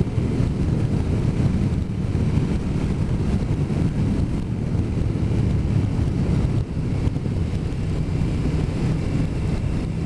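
Steady wind rush over the microphone mixed with a low, even drone from a motorcycle riding at road speed.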